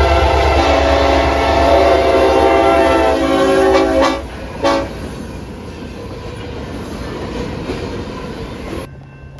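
Freight diesel locomotive's multi-chime air horn sounding a long blast, then a short one about half a second later, over the low rumble of the passing train. The train noise cuts off suddenly near the end.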